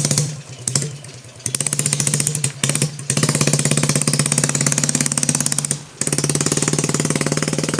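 Honda C90's small four-stroke single-cylinder engine, in a custom chopper, firing into life: a few stuttering bursts that catch and fade over the first three seconds, then running with a rapid, even popping beat that dips briefly about six seconds in. Its exhaust is not too loud.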